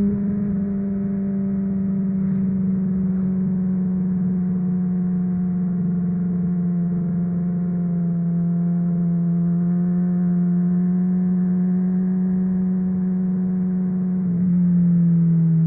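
Honda CBR600RR inline-four with a MIVV Suono aftermarket exhaust, running under steady throttle with one even note whose pitch slowly sinks. Near the end the note steps down to a lower pitch and gets louder.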